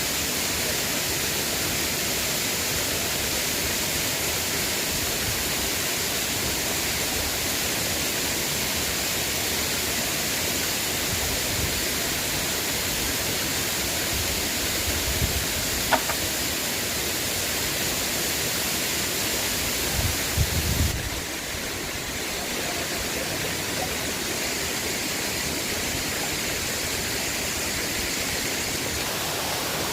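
Steady rush of flowing river water, with a sharp click a little past halfway and a few low knocks shortly after.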